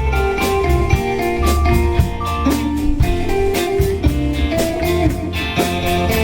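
Live band playing an instrumental oldies tune: a guitar carries the melody in held notes over rhythm guitar, bass, keyboard and a steady drum beat.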